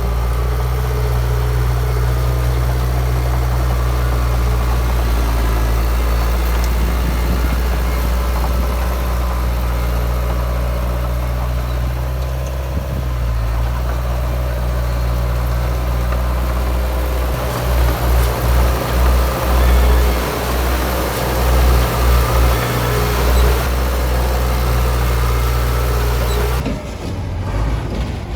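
Heavy diesel engine of a Komatsu D53P bulldozer running steadily at work, with a stretch past the middle where the loudness swells and falls about twice a second. The sound changes abruptly near the end.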